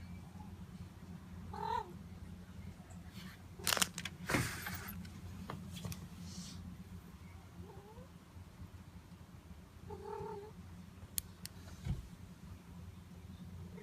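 Domestic cat purring steadily while being petted, with two short meows, about two seconds in and about ten seconds in. Two brief noisy bursts come around four seconds in.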